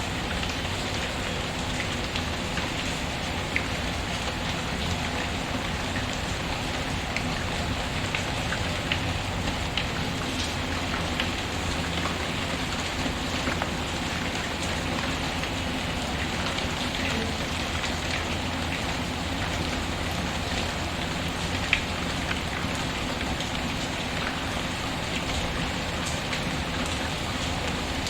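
Steady rain falling, mixed with the scattered sharp crackles and pops of a wood fire; one crackle about three-quarters of the way through stands out louder than the rest.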